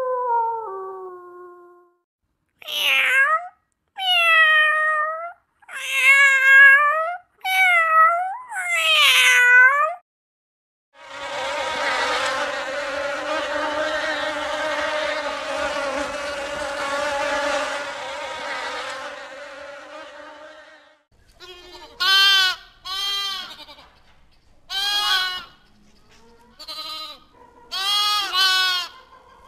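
A run of animal calls: a wolf's howl falling away in the first second or so, then five short arched calls between about 3 and 10 seconds. A honeybee's buzz follows, steady for about nine seconds and then fading. From about 22 seconds a lamb bleats in short wavering calls, about eight times.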